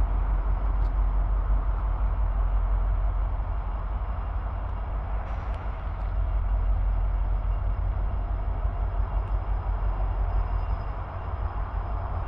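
A train rolling past: a steady rumble and rolling noise, with a faint high steady tone above it.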